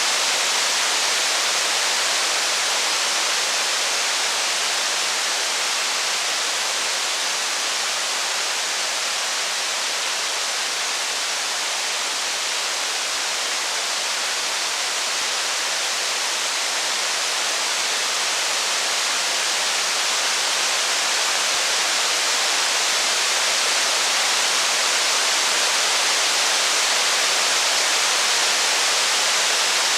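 Steady heavy rain, an even hiss with no separate drops, crackles or thunder standing out.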